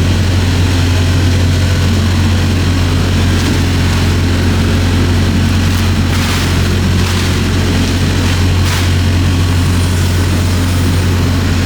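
Freightliner semi-truck's diesel engine idling with a steady low hum, with a few brief hissing noises about halfway through.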